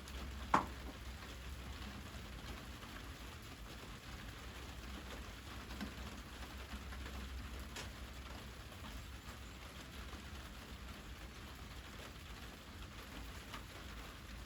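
Wood fire crackling steadily, with one sharp loud pop about half a second in and a few fainter snaps after it.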